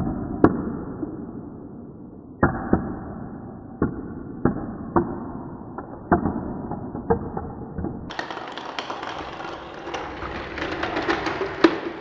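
Motorized toy train set running with a steady rumble, broken by irregular sharp plastic clacks. From about eight seconds in the clacks come thicker and brighter.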